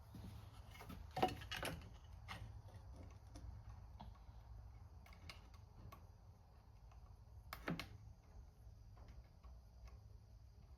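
Scattered light clicks and taps of small chainsaw parts being handled and fitted, with two louder knocks about a second in and near eight seconds in, over a low steady hum.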